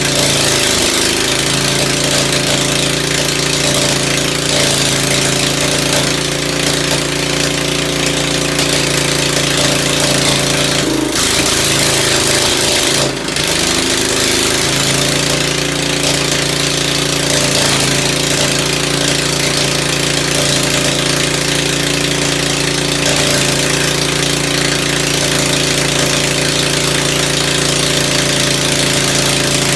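Ford engine idling steadily after a tune-up, with a brief stumble in its sound about thirteen seconds in.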